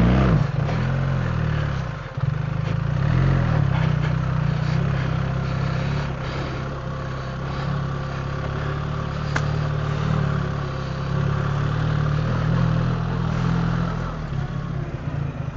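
BMW R 1300 GS Adventure's 1300 cc boxer-twin engine running at low revs on a trail ride, its note rising and falling as the throttle changes.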